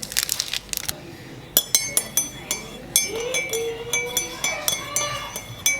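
A short rustle, then from about a second and a half in a spoon stirring in a ceramic coffee mug, clinking against the sides three or four times a second with a ringing tone.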